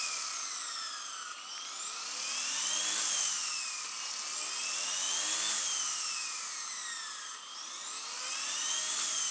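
Blade mCP X BL2 micro RC helicopter held by hand at minimum throttle: high electric motor whine and rotor blade whir. The pitch and loudness rise and fall in slow waves, peaking about three seconds in, again near the middle, and near the end.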